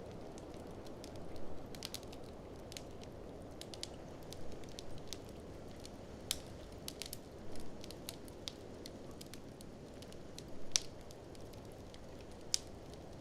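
Wood fire in a fireplace crackling, with irregular sharp pops scattered through and the loudest two near the end, over a steady low rushing noise.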